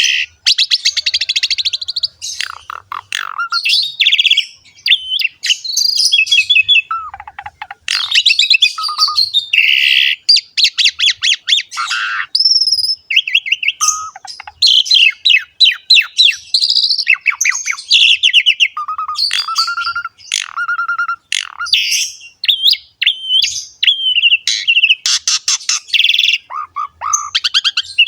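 Asian pied starling (jalak suren) singing a long, loud, varied song of rapid chattering and buzzy notes mixed with short clear whistles, with only brief pauses.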